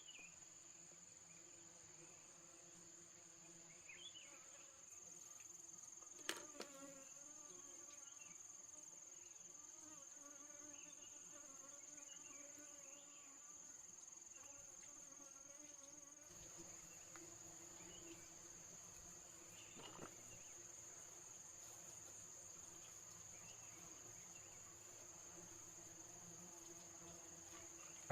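Faint, steady high-pitched drone of crickets, with a single sharp knock about six seconds in.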